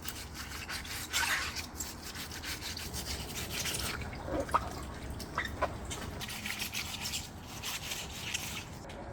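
Napa cabbage leaves being rubbed and rinsed by hand, a continuous rustling scrub with water dripping, as the cabbage is washed for kimchi.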